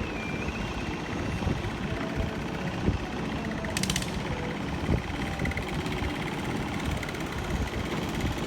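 Steady low engine rumble with scattered light clicks and a short buzzing rattle about four seconds in.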